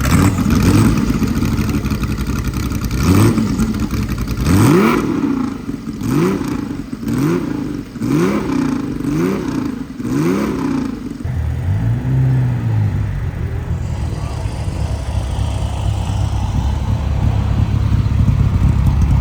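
Classic car engine revved in a run of short throttle blips, about one a second, each rising sharply in pitch. It then settles to a steady run with one brief rise and fall in revs.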